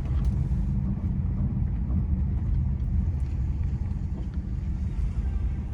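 Steady low rumble of a 2008 Mazda CX-9 rolling slowly at about 10 mph, heard from inside the cabin, with a few faint ticks. The front-end creak under investigation is nearly absent, as it is when the SUV turns to the right.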